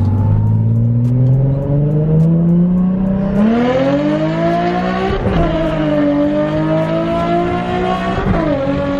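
Nissan 350z's 3.5-litre V6 pulling hard under full throttle, revs climbing steadily. There is a gear change about five seconds in and another near the end, each briefly dropping the revs before they climb again.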